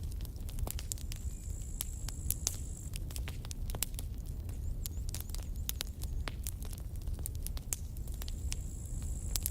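Campfire crackling: burning wood gives irregular sharp pops and snaps over a low, steady rumble. A faint high hiss comes in about a second in and again near the end.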